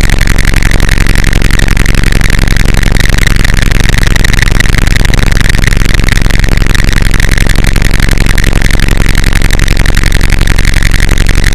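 Harsh noise music: a loud, unbroken wall of distorted noise with a fast, fine pulsing texture over a steady low drone, unchanging throughout.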